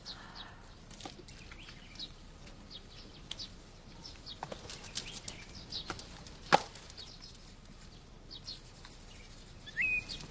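Small birds chirping sparsely over quiet room tone, with a few faint clicks and one sharper tap about six and a half seconds in.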